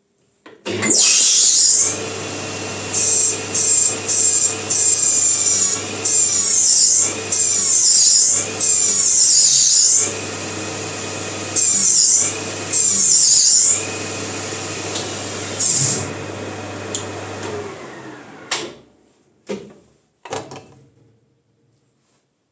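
Metal lathe spinning a bicycle disc-brake rotor at speed while the brake is applied again and again, each application a loud high screech of the pads on the hot rotor over the steady whine of the lathe. About 17 seconds in the lathe winds down to a stop, followed by a few short knocks.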